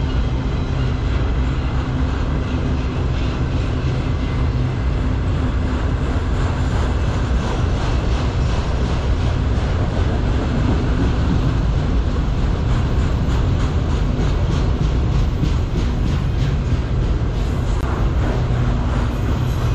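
Freight train of autorack cars rolling past: a steady, loud rumble of steel wheels on rail, with a run of rapid, regular wheel clicks through the middle.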